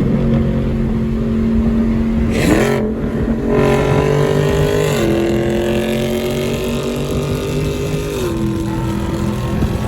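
Dodge Charger Scat Pack's 392 HEMI V8 running under way, with a quick rise in revs about two and a half seconds in. The engine note then holds and drops in two steps, near halfway and near the end, as it shifts gears.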